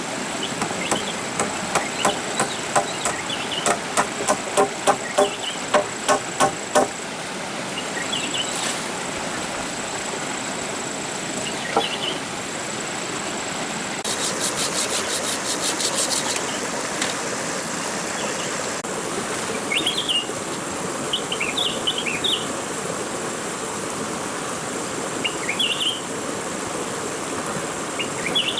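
Repeated hammer strikes, a sharp ringing knock about twice a second for about seven seconds, then stopping. Behind them is a steady insect drone with scattered bird chirps, and a rapid insect trill near the middle.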